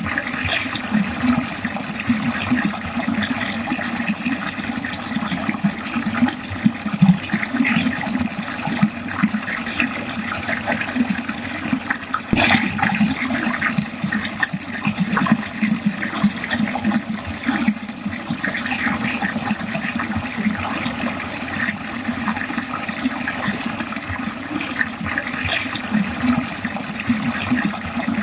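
Water running steadily down a drain, a continuous gurgling, splashing flow.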